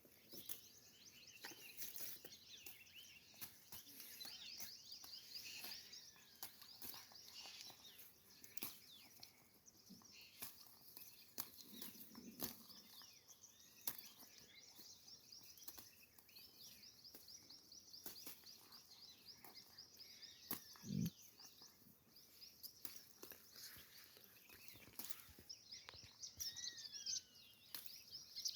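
Faint birds chirping and trilling continuously, with scattered small clicks.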